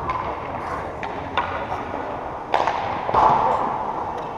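Game sounds in a sports arena: scattered sharp knocks and clacks of play over a reverberant hum of distant voices, with a cluster of louder hits a little past halfway.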